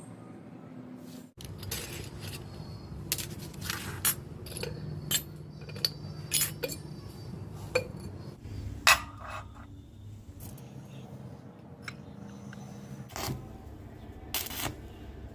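Small hard objects, such as metal parts or tools, being handled: irregular clinks, knocks and scrapes, with one louder clink about nine seconds in that rings briefly.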